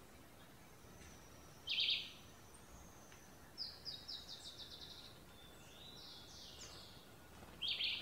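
Songbirds calling. There are two loud, short bursts of rapid chattering notes, one about a second and a half in and one near the end. Between them comes a run of quick, thin, high notes.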